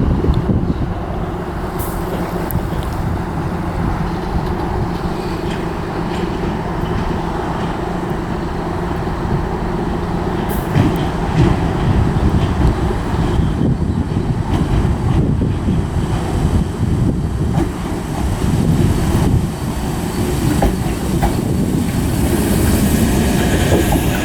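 Electric multiple-unit passenger train moving through the station, a steady low rumble with wheels clattering over the rail joints, getting louder in the second half.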